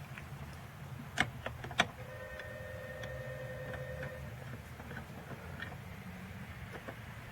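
A few sharp plastic clicks and ticks of hand work on a car's exterior door handle, the two loudest about a second and a second and a half apart, over a steady low hum. A brief steady whine is heard in the middle.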